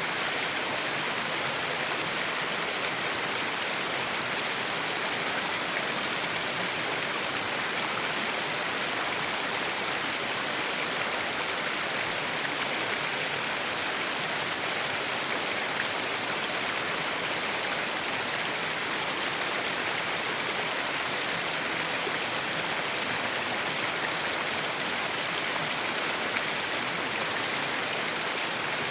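Waterfall: falling water making a steady, even rushing hiss with no change in level.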